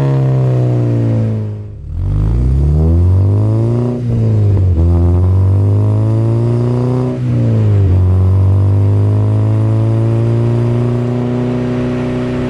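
A 2011 Honda Civic Si's 2.0-litre four-cylinder, fitted with an aftermarket header, intake and Invidia Q300 cat-back exhaust, pulling through the gears. The pitch falls at first and dips about two seconds in, then climbs. It drops sharply at upshifts about four and seven seconds in, then climbs slowly again.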